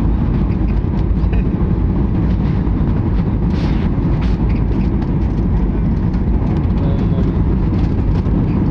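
Aeroplane during landing, a steady loud low rumble of engines and air noise with no change through the stretch.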